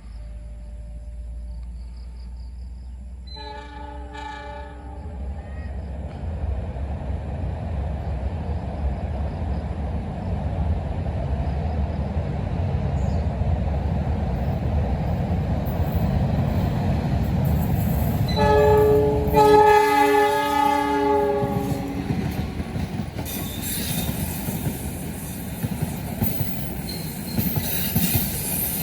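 Bus passing through a bend with its multi-tone air horn: a short blast a few seconds in and a longer, louder one about two-thirds of the way through, over engine rumble that builds as it nears. Tyres hiss on the wet road near the end.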